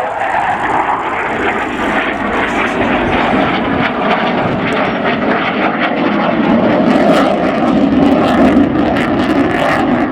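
Aircraft engines flying past at an air display: a loud, steady engine noise whose pitch falls just after the start as an aircraft passes, then a lower, fuller drone.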